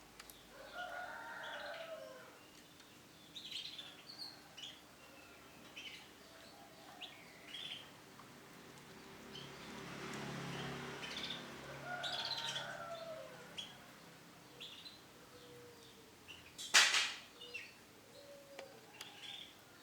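Female canary giving short, scattered chirping calls, with a few lower, longer calls among them. A single sharp knock near the end is the loudest sound.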